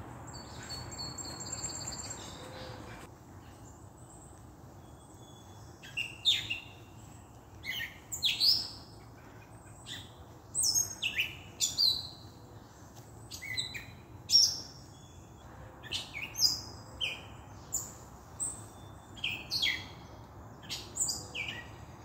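A songbird calling over and over with short, sharp chirps, each sweeping down in pitch, coming singly and in quick pairs about every second from about six seconds in. A faint high trill is heard before the chirps begin.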